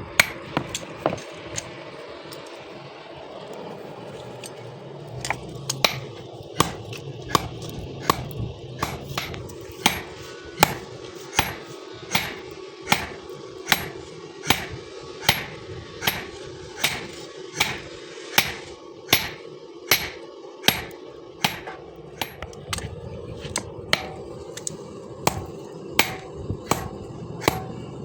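Hand hammer striking steel on an anvil, forging a piece of bearing-ring steel into a blade, with a short ringing blow about every two thirds of a second. The blows pause for a few seconds near the start, over a steady low hum.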